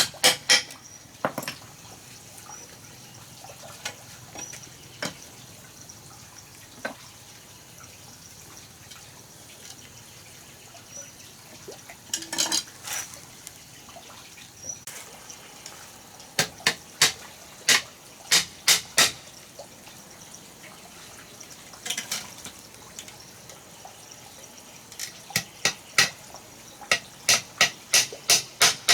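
Sharp knocks or taps in quick runs of several strikes, two to three a second, with quiet gaps of a few seconds between the runs.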